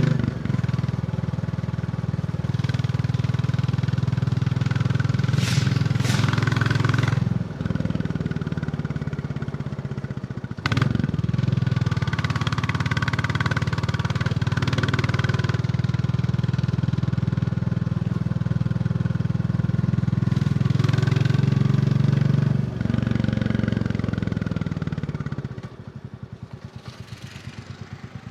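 Royal Enfield Bullet 350 single-cylinder engine and exhaust running under way. The steady beat dips and picks up again several times, as with gear changes, and near the end it falls back to a quieter, slower thump as the throttle closes.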